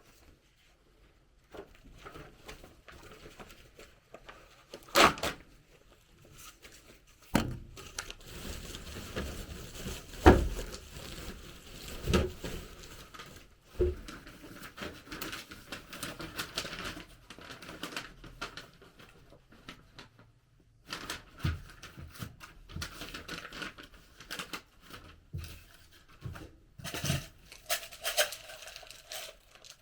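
Rustling and crinkling handling noise with scattered sharp knocks, the loudest about five and ten seconds in, and a short pause shortly after the middle.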